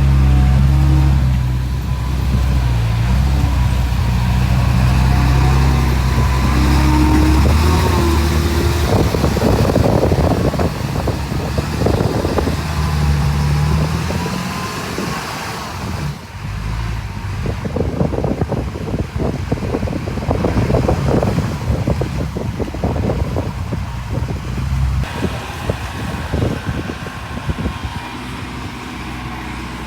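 Diesel engine of heavy earthmoving machinery running under shifting load, its pitch rising and falling, with stretches of rattling and clatter. The sound changes abruptly about halfway through and again near the end.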